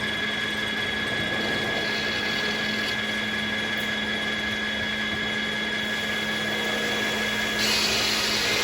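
Circular sawmill running steadily: an even hum with a high, steady whine. It grows brighter and a little louder about a second before the end.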